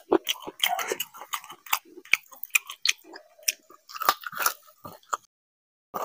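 Close-up chewing and lip smacking of a mouthful of rice and mutton curry eaten by hand, with many short wet mouth clicks. The sound drops out to dead silence for about half a second near the end.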